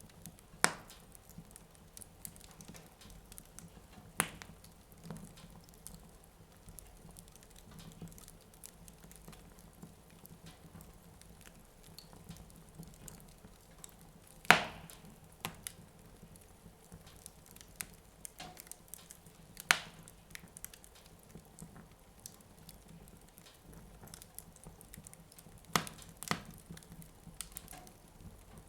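Wood fire burning in a fireplace, crackling with sharp pops that come every few seconds, the loudest about halfway through.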